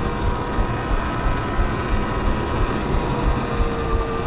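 Segway X160 electric pit bike's motor whining at a steady pitch while riding, over a rushing noise.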